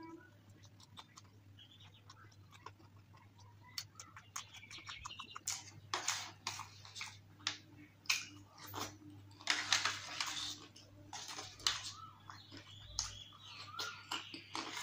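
Close-up eating sounds: wet chewing and crunching of dahi puri chaat, quiet for the first few seconds, then louder with many sharp clicks and smacks from about five seconds in.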